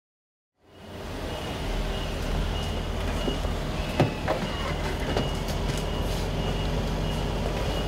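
Car engine idling with a steady low rumble, a faint repeating high beep above it, and a sharp click about four seconds in.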